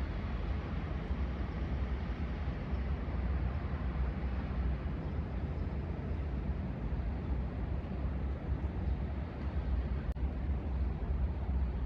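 Steady low outdoor rumble with no bird calls standing out, and one faint click about ten seconds in.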